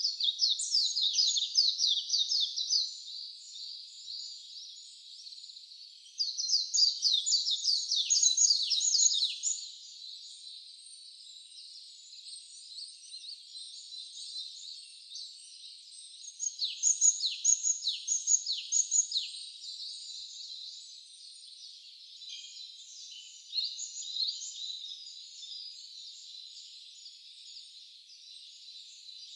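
Wild songbirds singing. Three loud runs of quick, downward-sweeping high notes come at the start, about six seconds in and about sixteen seconds in, over a steady background of softer chirping.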